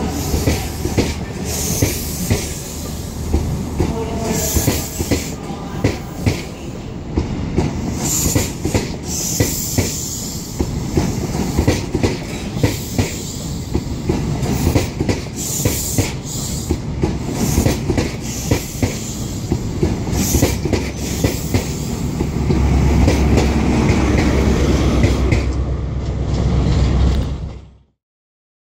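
Virgin Trains East Coast intercity coaches rolling past along the platform, wheels clicking over rail joints above a steady low rumble. The rumble swells near the end, then the sound cuts off abruptly.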